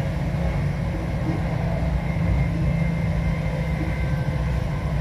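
Passenger train running at speed, heard from on board: a steady low rumble with a constant engine hum.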